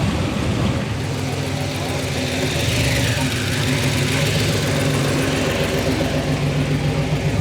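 Car engine idling with a steady low rumble that holds an even pitch.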